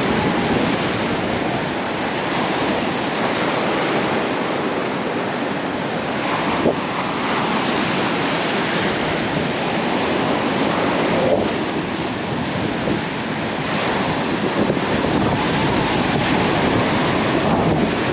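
Ocean surf washing steadily onto a beach, with wind buffeting the microphone. A single sharp click about seven seconds in.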